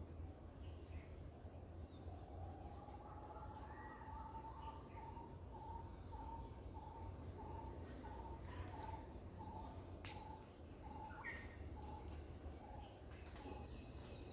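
A bird repeating a short clear note about twice a second, starting a couple of seconds in and stopping near the end, over a steady high insect trill and a low background rumble.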